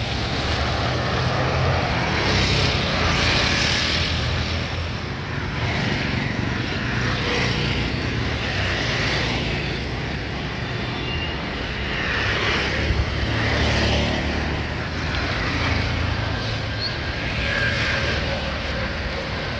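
Road traffic: a steady low engine hum with the noise of vehicles passing that swells and fades several times.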